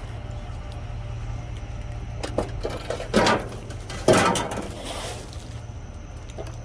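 Discarded goods being rummaged through by hand: a few light clicks, then two loud bursts of rustling and clattering about three and four seconds in, over a steady low hum.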